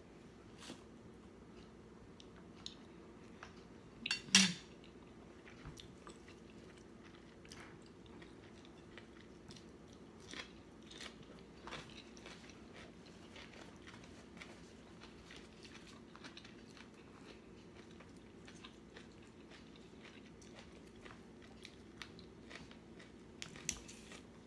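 A person chewing and crunching food close to the microphone, with scattered small clicks and one louder sound about four seconds in, over a faint steady hum.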